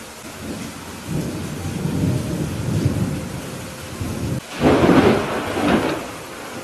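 Steady rain with thunder: a low rumble builds about a second in, then a sudden, louder thunderclap comes about two-thirds of the way through and fades out.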